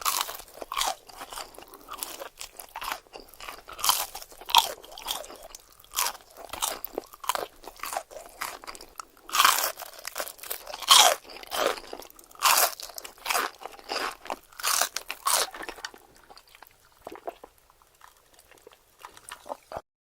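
Close-miked ASMR eating: loud, crisp crunching bites and chewing of crispy fried food, one crunch after another. The crunches thin out and grow quieter near the end, then the sound cuts off abruptly.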